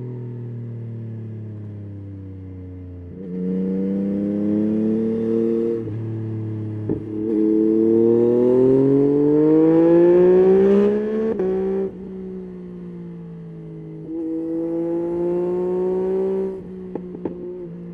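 Yamaha Tracer 9's inline three-cylinder engine under way, the pitch falling off throttle, then rising as it accelerates, loudest and highest about ten seconds in. It drops back, pulls again briefly, then eases off, with a few sharp clicks near the end.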